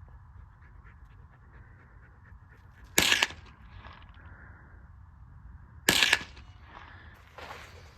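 Two gunshots about three seconds apart, each sharp and loud with a short echo trailing it.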